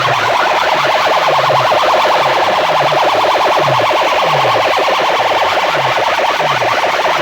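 Competition DJ sound system blasting an electronic siren-like effect. It is made of rapid rising chirps repeating many times a second over a falling bass sweep that repeats about every two-thirds of a second, loud and unbroken.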